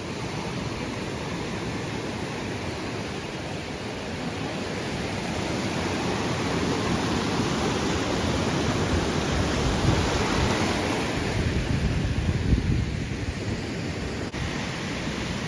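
Fast-flowing creek rushing steadily, a little louder partway through.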